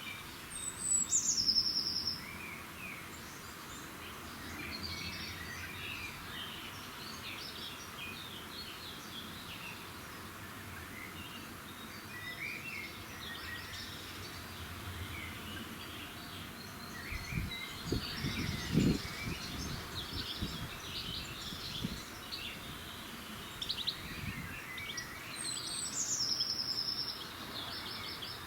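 Dawn chorus of wild birds: many small birds chirping and twittering. One bird's high call drops in pitch and ends in a short trill, heard twice, about a second in and again near the end. About two-thirds of the way through come a few brief low thuds.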